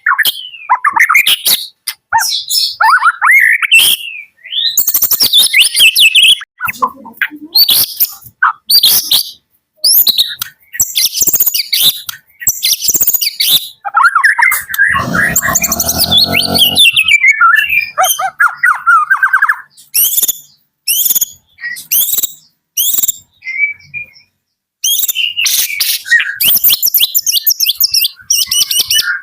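White-rumped shama (murai batu, Medan type) singing its morning song close up: loud, varied phrases of whistles and rapid trills, broken by short pauses. About halfway through comes a low, harsh buzz lasting a couple of seconds.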